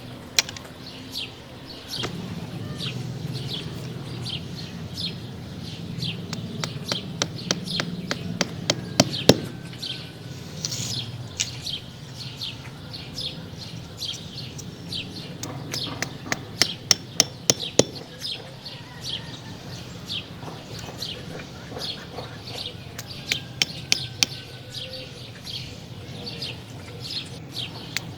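Small birds chirping over and over, with sharp clicks and taps from close handwork, loudest about nine seconds in and in a quick run a little past halfway. A low hum underlies the first part.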